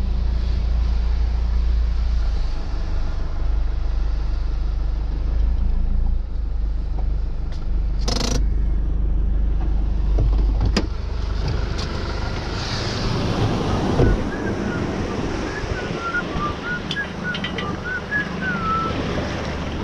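A 4x4's engine running, heard from inside the cab as a steady low rumble, with a single sharp knock about 8 seconds in. The engine sound drops away about 11 seconds in, leaving a steady hiss with a thump and a run of short high chirps.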